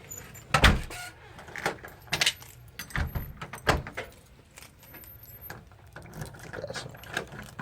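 Handling noise: a series of sharp clicks and knocks with some jingling, the loudest about half a second in and others scattered through the rest.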